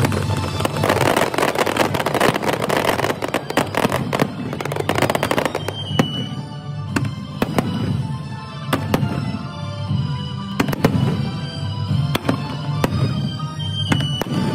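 Aerial fireworks going off, with repeated sharp bangs and a dense crackling that is heaviest in the first few seconds. Music plays underneath. The recording is played back at double speed.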